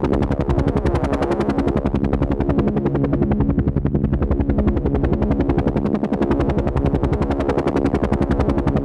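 Helicopter rotor beating in a fast, steady rhythm over a low engine hum.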